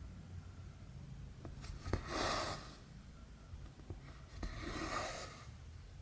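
Needle clicking through cross-stitch fabric, then cotton thread drawn through the cloth with a rasping swish, twice.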